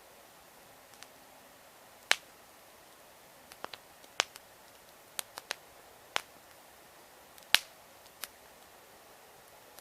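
Wood campfire crackling: sharp, irregular pops, about a dozen of them, the loudest about two, four and seven and a half seconds in, over a faint steady hiss.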